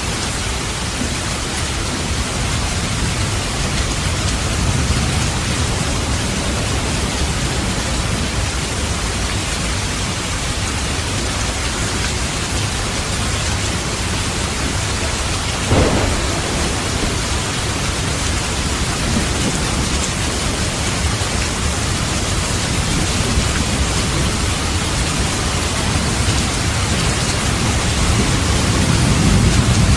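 Steady heavy rain with low rolling thunder, the rumble swelling near the start and again near the end. A single short sharp crack comes about halfway through.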